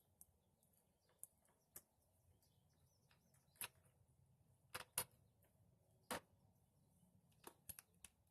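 Faint, irregular clicks and knocks of a wrench tightening a battery terminal bolt, with near silence between them.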